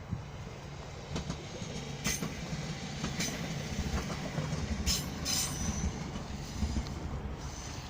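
Train wheels on the rails: a steady low rumble with several short, high-pitched wheel squeals and clicks scattered through it.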